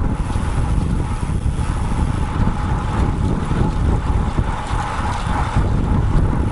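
Wind buffeting the microphone of an action camera mounted on a moving road bike: a steady, loud rumble of wind noise.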